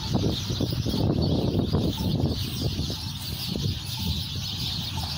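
A large flock of birds roosting in trees, chattering and calling all at once in a dense, continuous chorus. A low rumble runs underneath.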